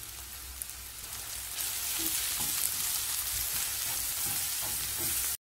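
Soya chunks sizzling in hot oil in a non-stick kadai while a wooden spatula stirs them, with small scrapes and clicks. The sizzle grows louder about a second and a half in, then cuts off abruptly near the end.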